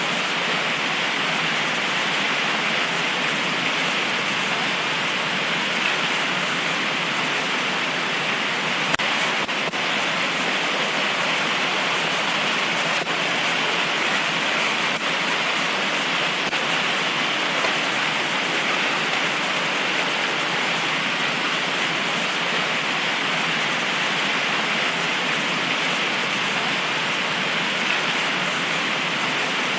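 Heavy tropical rain pouring down steadily, a dense even hiss with no let-up and a few faint drop ticks.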